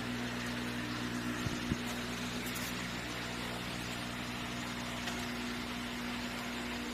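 Diesel engine assembly for an LG936D wheel loader running steadily, with two small clicks about a second and a half in.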